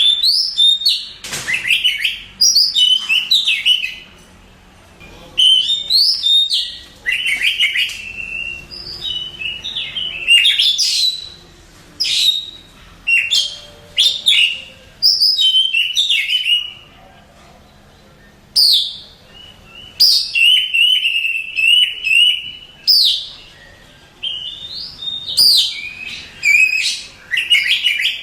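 Oriental magpie-robin (kacer) singing loudly: varied phrases of whistled and quick chattering notes, each a second or two long, broken by short pauses.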